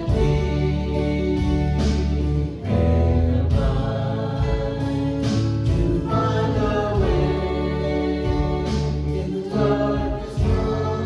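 Live gospel-style worship music: voices singing together with instrumental accompaniment.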